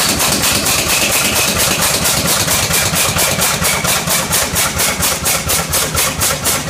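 Atlas Imperial four-cylinder diesel engine running, with even beats about five a second that grow more distinct toward the end, and a thin high whistle that fades out a few seconds in. The engine has a stuck throttle valve.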